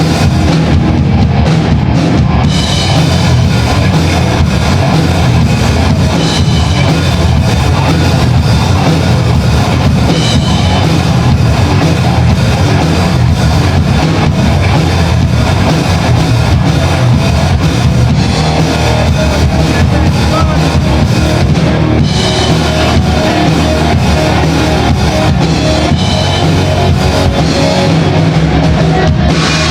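Loud rock music: a band with a drum kit and electric guitar playing.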